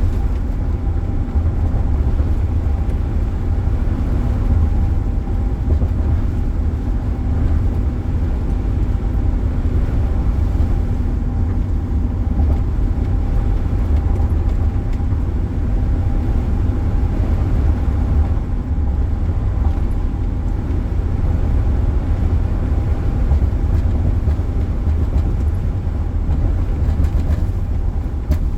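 Steady road and engine noise inside a moving car at highway speed, a deep rumble with a faint hum and no sudden sounds.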